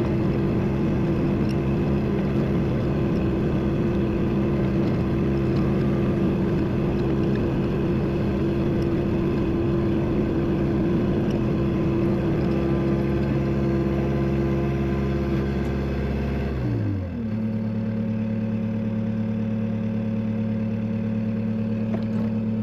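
Dump truck engine running steadily at raised revs; about seventeen seconds in the revs drop and it settles into a steady idle.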